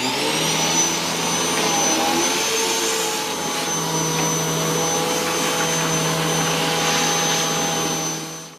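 Hoover WindTunnel T-Series bagless upright vacuum switching on, its motor spinning up and then running steadily with a high whine over a loud rush of air.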